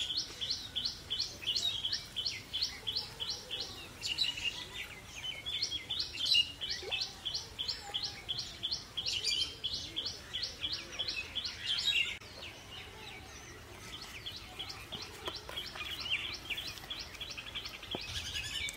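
A bird calling in fast, evenly repeated chirps, about five a second, strongest for the first twelve seconds or so, then fainter and more scattered.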